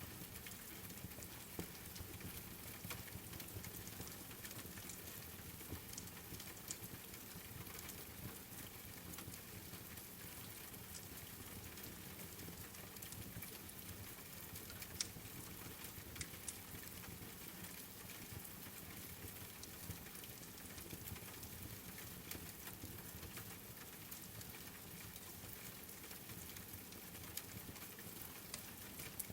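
Steady rain with the scattered pops and crackles of a wood fire burning, one louder pop about halfway through.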